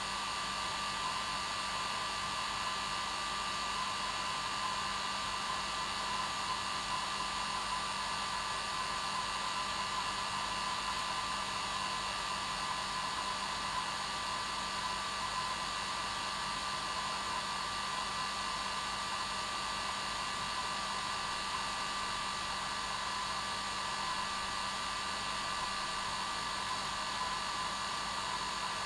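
Hair dryer running continuously at a steady speed, an even whirring hiss with a fixed motor hum and no change in pitch.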